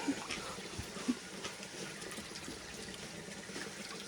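Shallow stream water running and trickling steadily, with a few small knocks in the first second and a half.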